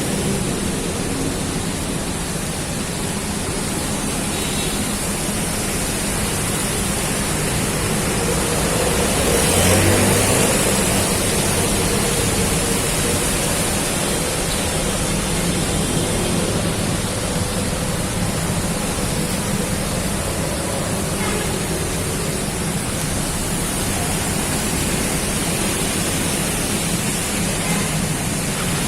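Heavy rain pouring down in a steady roar of noise, swelling briefly about ten seconds in, with a steady low hum underneath.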